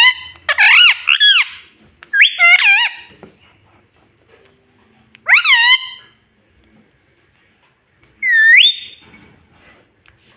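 Pet Indian ringneck parrot giving loud, shrill whistled calls that rise and fall in pitch, in four short bouts: a quick run of calls at the start, another about two seconds in, one near the middle and a rising whistle about eight seconds in.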